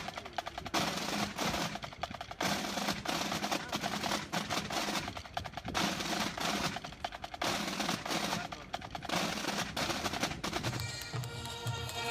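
Rapid snare drum rolls in long loud bursts with short breaks between them. Near the end, sustained pipe-band melody tones come in.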